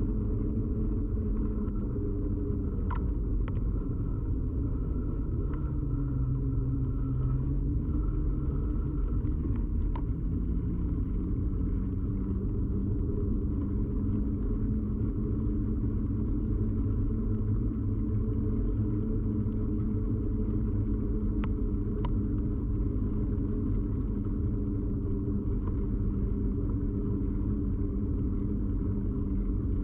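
Steady low rumble and hum of a bicycle ride picked up through a camera fixed to the bike, tyre and frame vibration carried straight into the microphone. A few sharp clicks or rattles sound over it, a handful in the first ten seconds and one a little past the middle.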